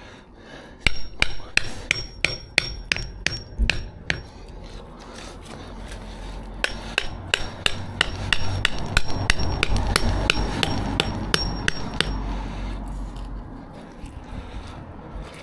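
Hammer driving nails into the timber formwork frame: two runs of quick blows, about three a second, each with a short metallic ring, the first from about a second in to four seconds, the second from about seven to twelve seconds. A low rumble sits underneath during the second run.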